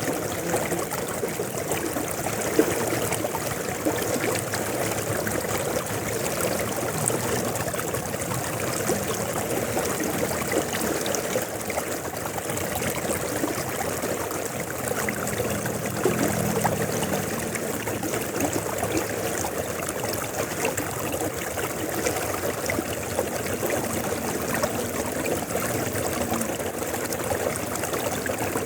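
River water flowing steadily, with one short sharp tick about two and a half seconds in.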